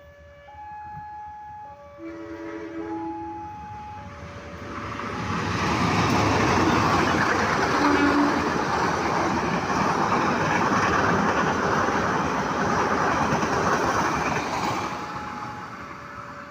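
A train passes close by, a loud rush of wheels on rail that builds from about five seconds in and fades near fifteen seconds. Before and after it, a level-crossing warning alarm sounds in two alternating tones.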